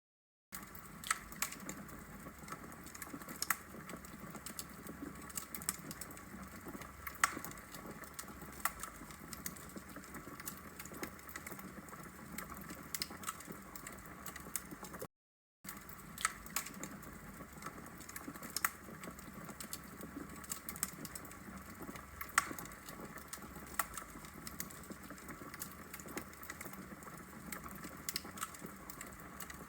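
Logs burning in a fireplace: a steady soft hiss of the fire with irregular sharp crackles and pops from the burning wood. The sound drops out to silence for about half a second twice, just after the start and about halfway through.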